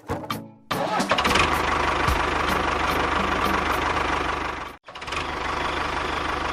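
A small engine starts running about a second in and runs steadily with an even pulse, dropping out for a moment near the middle before running on.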